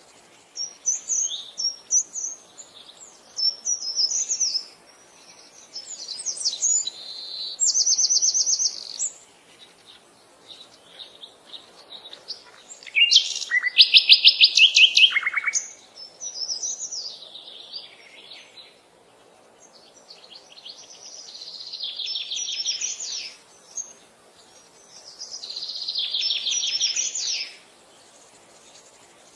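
Songbirds singing: a series of high chirping phrases and fast trills with short pauses between them. The loudest is a rapid trill about halfway through.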